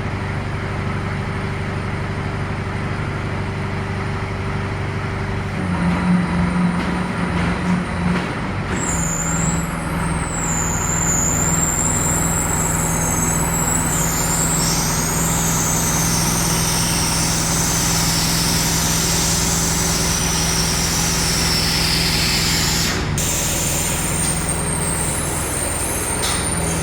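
An engine running steadily, its low hum shifting pitch about six seconds in, with a high whistling hiss over it from about nine seconds in until near the end.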